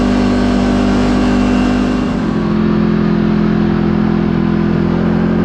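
Kawasaki KRX4 1000 side-by-side's parallel-twin engine running steadily as the vehicle drives along, its note shifting slightly about two seconds in.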